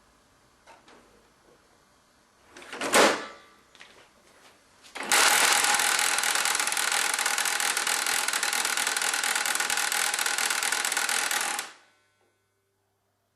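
A brief loud noise, then an HP LaserJet 1150 laser printer grinding and rattling loudly and steadily for about seven seconds before cutting off suddenly. The racket comes from an unknown internal fault in the dead printer.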